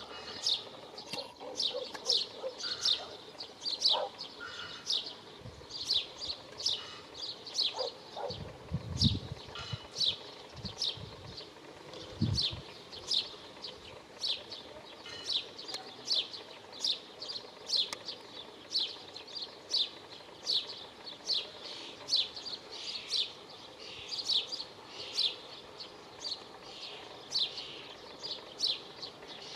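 A small bird chirping over and over: short, sharp, high notes, a little more than one a second and very regular. A few dull low thumps come about a third of the way in.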